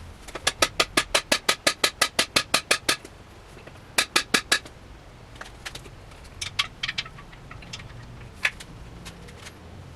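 Hammer blows on a cam bearing driver, seating a cam bearing in a Ford 292 Y-block: a quick run of about seventeen sharp metallic strikes, a pause, four more strikes, then a few lighter scattered taps.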